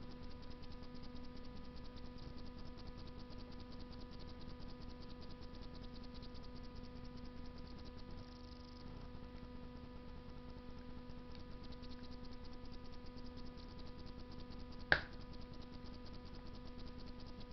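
Wood fire burning in a Russian masonry stove: faint, fine crackling over a steady hum, with one sharp pop of the burning wood about fifteen seconds in.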